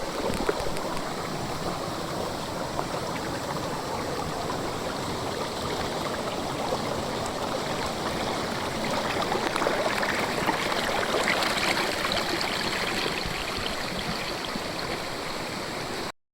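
A two-tiered waterfall pouring and splashing in a steady rush of water, a little louder about ten seconds in, cutting off abruptly just before the end.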